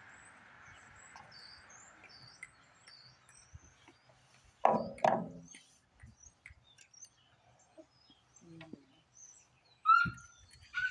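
Small birds chirping in the background, with two loud short knocks close together about halfway through.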